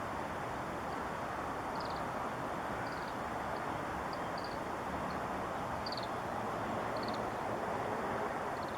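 Steady background noise, like distant traffic, with short, high bird chirps about once a second.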